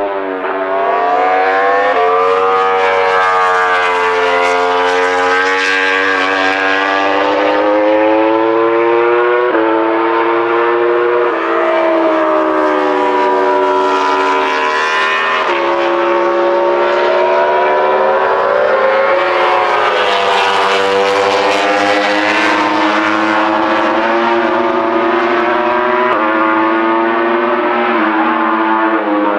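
MotoGP racing motorcycles' 1000 cc four-cylinder engines at full throttle on track, loud and continuous. The engine pitch climbs and then drops sharply at gear changes several times.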